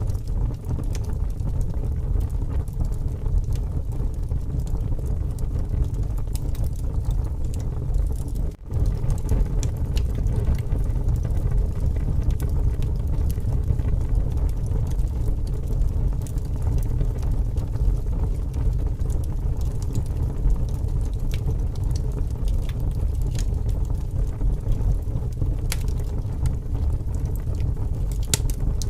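Wood fire crackling with sharp scattered pops over a strong wind's steady low rumble. The sound cuts out for an instant a little over eight seconds in.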